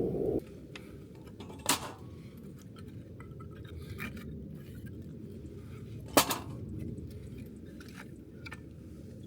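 Two sharp clinks of hard objects knocking together, about four and a half seconds apart, with a few faint small ticks, over a steady low rumble.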